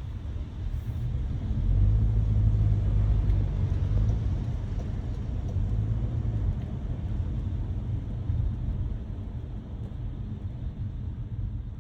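A car driving on wet roads: a steady low rumble of engine and road noise with a hiss of tyres, swelling about two seconds in and then slowly easing.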